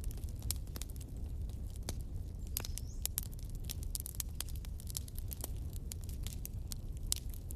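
Wood bonfire burning: irregular sharp crackles and pops over a steady low rumble of the flames, with a brief high whistle from the burning wood about three seconds in.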